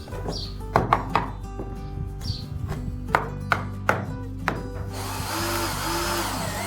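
Background music over woodworking sounds: several sharp knocks on wood, then, from about five seconds in, a steady noise of a tool working the wood.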